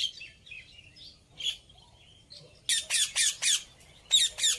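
Parrot squawking. Faint chirps come first, then a quick run of four loud, short squawks starting a little past halfway, and two more near the end.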